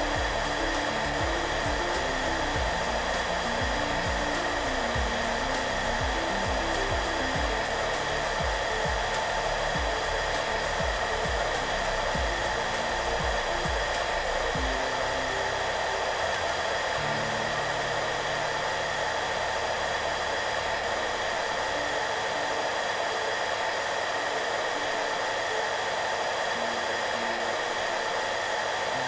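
Hair dryer running steadily with an even, unchanging blowing noise, over soft background music whose low notes thin out in the second half.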